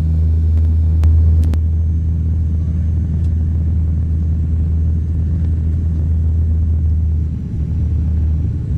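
Steady low drone of a propeller airliner's engines heard from inside the cabin in flight, with a few faint clicks about a second in.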